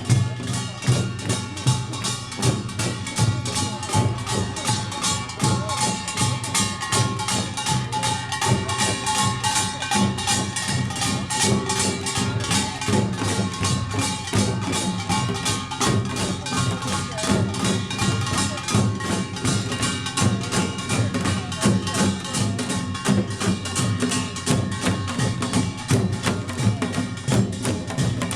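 Korean pungmul percussion ensemble playing a Jeolla Jwado rhythm: kkwaenggwari small gongs clanging in a dense fast beat over janggu and buk drums, with gong tones ringing on, without a break.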